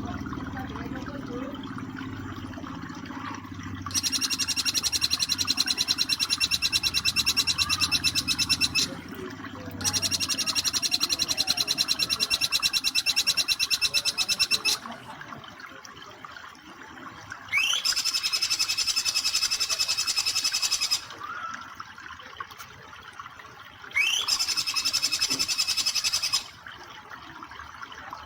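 Jingjing petulak song: four loud, very fast trills lasting about two to five seconds each, the last two opening with a quick rising note. The trills are the rapid-fire 'nembak' song, heard over a steady background of running water.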